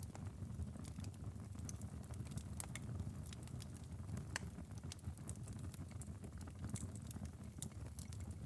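Wood fire crackling in a fireplace: irregular sharp pops and snaps, a few louder than the rest, over a low steady rumble of burning.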